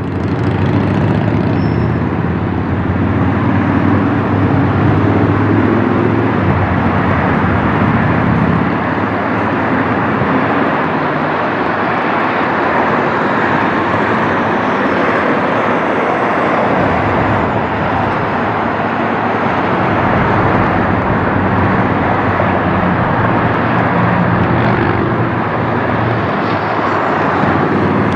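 Jet engines of an Airbus A321-231 airliner, its IAE V2500 turbofans, running loud and steady as the aircraft passes, a wide rushing noise over a low drone.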